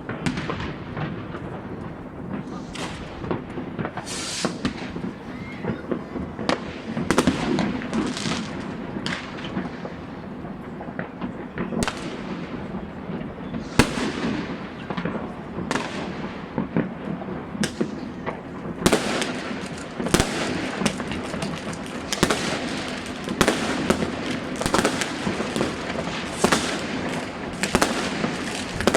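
Many fireworks and firecrackers going off across a city at once: a constant background of distant bangs and crackle, with louder nearby shell bursts every second or two that come thicker in the second half.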